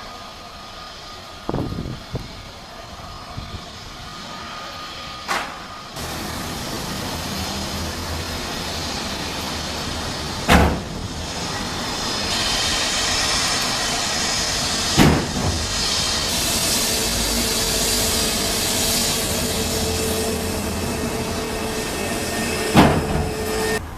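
Jet engine noise of an Azul Airbus A320neo with Pratt & Whitney geared turbofans: a steady rush with a high whine and a low hum, jumping up about six seconds in and growing louder before holding steady. Several sharp knocks cut through it, the loudest three spread through the second half.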